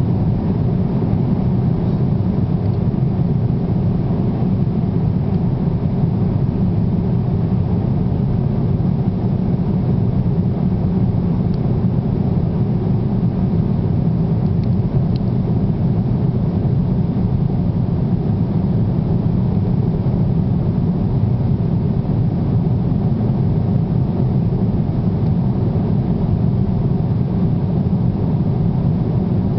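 Steady low rumble of an airliner's engines and airflow heard inside the cabin in flight, unchanging throughout.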